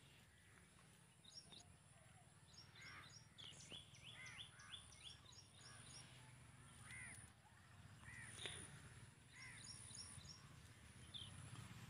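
Faint outdoor birdsong: several birds calling, with quick runs of high chirps and short arched calls coming every second or two, over a low steady background hum.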